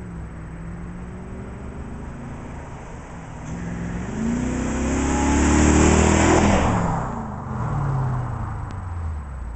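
BMW 840Ci V8 through a stainless steel exhaust, running steadily and then getting louder to a peak about six seconds in, its pitch falling as the sound dies away.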